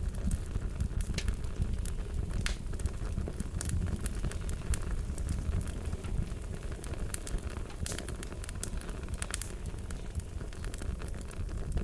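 Fire crackling: a steady low rumble of flames with many irregular sharp pops and snaps.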